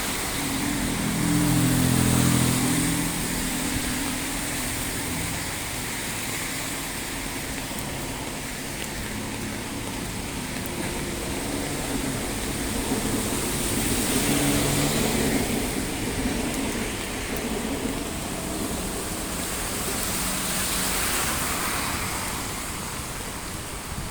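Steady heavy rain on a city street, with cars passing on the wet road; the passes swell up about two seconds in, again around the middle, and once more near the end.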